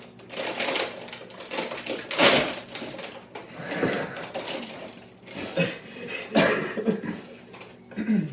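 Cheez-It cracker packaging rustling and crackling as it is opened and handled, in irregular bursts.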